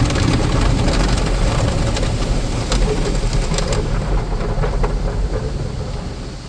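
Automatic car wash at work on a car: a steady rumble of machinery and water spray with scattered taps, dying down near the end.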